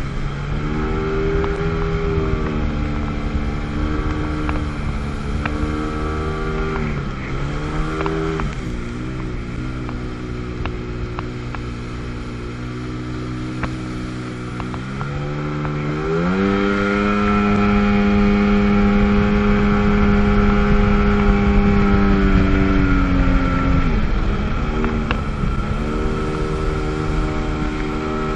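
Sea-Doo GTS jet ski's 720 two-stroke twin engine running under way, its pitch falling and rising as the throttle is eased off and opened again: it drops about seven seconds in, climbs to a higher steady pitch about sixteen seconds in, dips briefly near twenty-four seconds and climbs again near the end. A steady low rumble of wind and water runs underneath.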